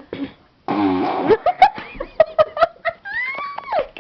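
A loud, sputtering fake fart made with a child's arm, about a second in, followed by giggling and a short rising-and-falling squeal near the end.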